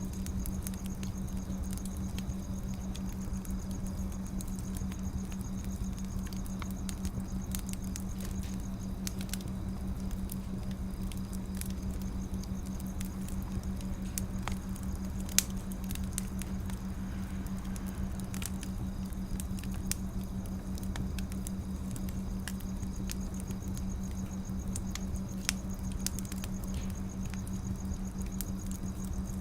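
Firewood burning with soft, irregular crackling and occasional sharper pops, over a steady low hum.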